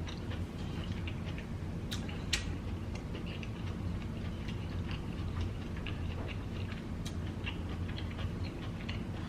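Close-miked chewing of a big mouthful of broccoli: a run of small wet mouth clicks and smacks, with a couple of sharper clicks about two seconds in. A steady low hum runs underneath.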